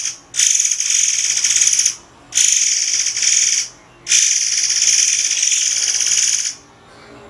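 Murai air song: a high, dry, buzzing trill. It comes as the tail of one burst, then three long bursts of about one and a half, one and a half and two and a half seconds, each with a short pause between. It stops about a second before the end.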